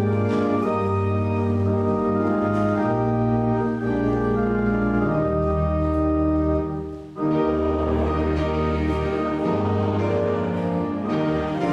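Church organ playing slow, held chords over a deep bass line, with a short break and a change of chord about seven seconds in.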